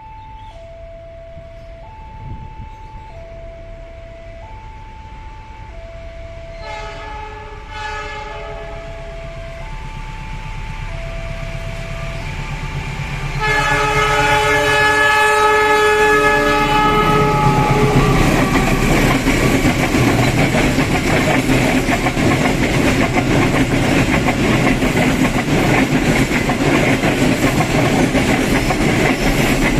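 A level-crossing warning alarm sounds two alternating tones, switching about every three-quarters of a second, as a train approaches. The locomotive's horn gives short blasts, then a long blast about halfway through, and the train then passes close by with loud rumbling and clatter of wheels on the rails.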